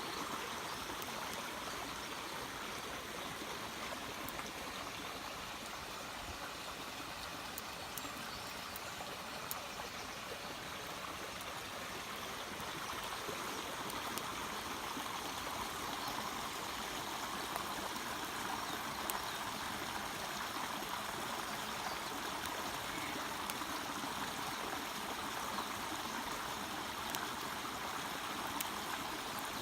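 Steady rushing water of a stream, with a few faint ticks scattered through it.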